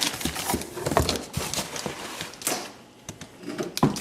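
Parts and packaging of a soldering station being handled while unboxing: a string of irregular clicks and knocks, loudest about a second in and again near the end.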